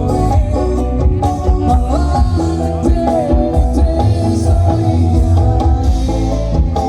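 Live dangdut koplo band music, loud and steady, with a heavy bass pulse and a busy, bending melody line over it.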